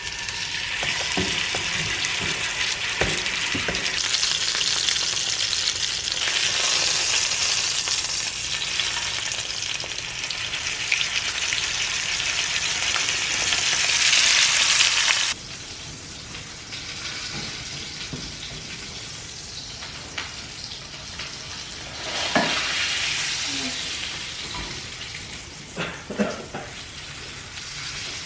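Steaks searing in hot olive oil in a cast-iron skillet, with a loud, steady sizzle. Just past halfway it drops suddenly to a quieter sizzle, and a few short knocks follow near the end.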